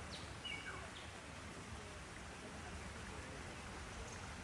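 A few short bird chirps in the first second, then a steady, even outdoor background hiss.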